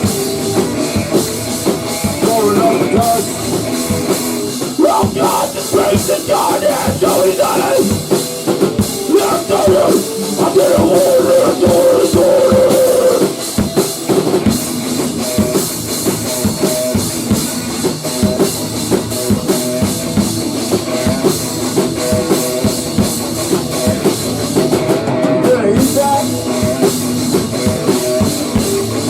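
Rock band playing loud, driving rock music, with a busy drum kit under sustained guitar and bass.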